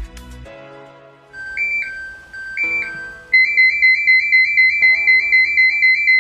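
Electronic timer alarm marking the end of the three-minute countdown: a few two-note beeps, then a loud, fast warbling alarm tone at about five pulses a second. Background music stops just before the beeps begin.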